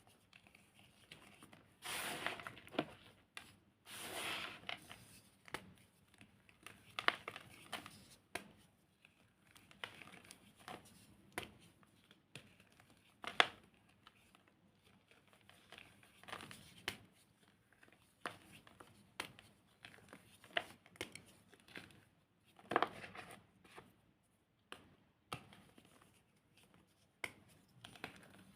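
Dried, re-formed cornstarch chunks being crushed and crumbled by hand: irregular crunching and crackling, with a few louder crunches scattered through.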